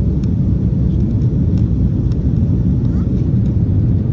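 Airbus A330-200 airliner in flight after takeoff, its engines and airflow making a steady, loud low rumble, with a few faint clicks.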